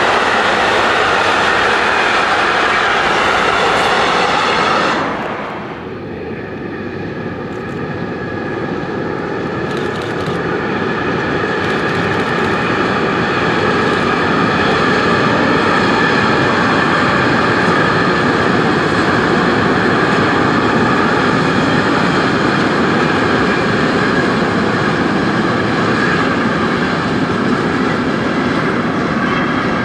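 A train passing close by: a loud, continuous rush of wheels on rail. About five seconds in the sound changes suddenly and grows quieter, then builds back up to a steady level.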